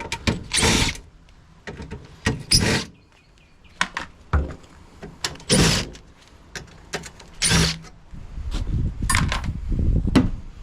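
Work on the fridge's bottom sheet-metal plate as its four screws are taken out: about five short bursts of noise, then a longer rough scraping stretch near the end.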